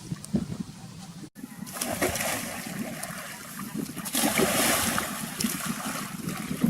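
Water splashing and sloshing in uneven bursts, with a brief break about a second in and louder splashing about four seconds in.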